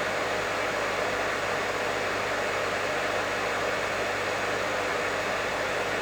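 Professional hair dryer running steadily, a constant airy rush of blown air with a faint motor hum underneath.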